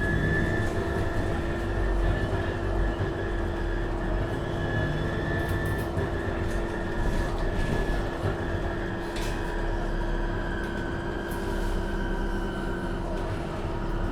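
Cabin sound of a 2015 MAN Lion's City NL253 Hybrid city bus under way: steady drive and road noise with a constant hum and a higher whine that drifts slightly in pitch.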